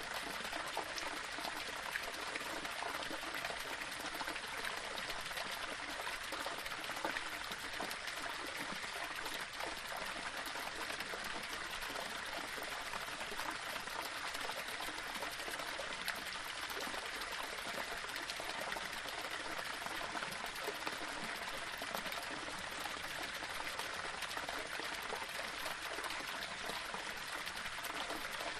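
Small waterfall splashing and trickling over rocks in a steady, unbroken rush of running water.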